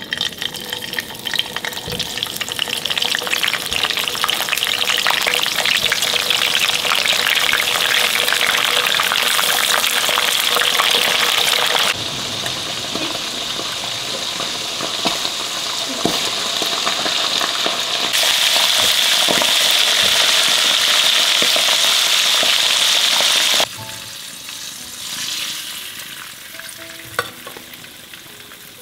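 Food deep-frying in hot oil in a wok: a loud, dense sizzle and crackle that starts as a salted fish goes into the oil. The level jumps abruptly a few times and drops to a softer sizzle for the last few seconds.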